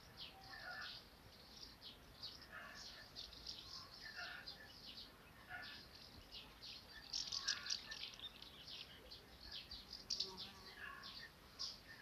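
Small birds chirping: many short, high chirps in quick succession, busiest about seven seconds in.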